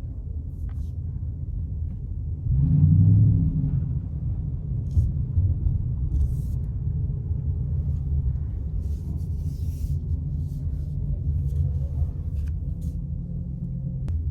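Car engine and road rumble, heard from inside a slowly moving car: a steady low drone that swells louder for about a second near the start.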